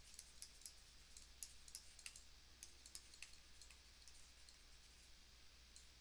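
Faint, irregular clicks, several a second at uneven spacing, over near silence.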